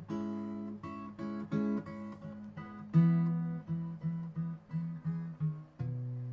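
Acoustic guitar playing picked and strummed chords in a steady rhythm, with a louder strummed chord about three seconds in. This is the instrumental introduction of a song, with no vocals.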